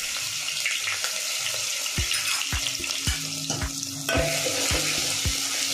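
Grated garlic-ginger paste and ajwain seeds sizzling in hot oil while a spoon stirs them in the pot. A short low knock repeats about twice a second from about two seconds in.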